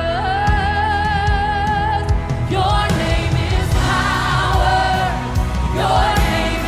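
Gospel music with voices singing: a held, wavering sung note for the first two seconds, then sung phrases carried by several voices, over a steady instrumental backing with a beat.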